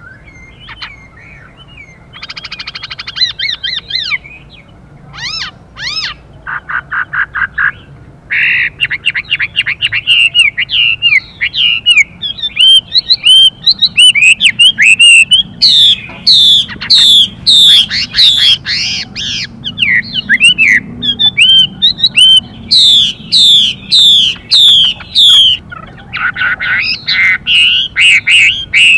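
Chinese hwamei pair calling. In the first part there are short harsh, buzzy rasping bursts, the female's 'xùy' calls that excite the male. From about twelve seconds in comes a loud, fast run of whistled notes sweeping up and down, the male's song.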